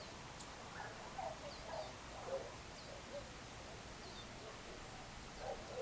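Birds calling outdoors in the evening: scattered short low calls and a few faint high chirps over a steady background hiss.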